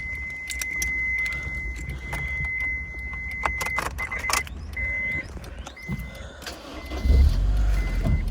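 Keys jangling and clicking over a steady high warning chime, which then breaks into beeps about once a second. Near the end the 2007 Honda S2000's four-cylinder engine starts with a jump in loudness and settles into a steady idle.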